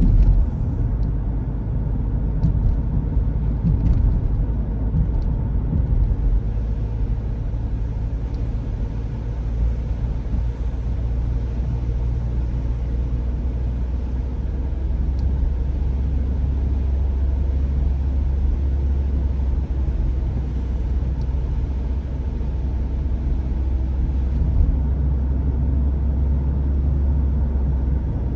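Car driving in the rain, heard from inside: a steady low rumble of engine and tyres with an even hiss of the wet road above it, and a few faint ticks in the first few seconds.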